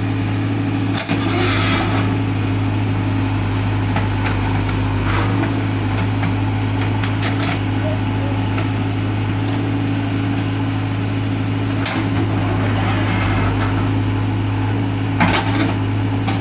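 JCB machine's diesel engine running at a steady speed, with a few short knocks and clanks now and then.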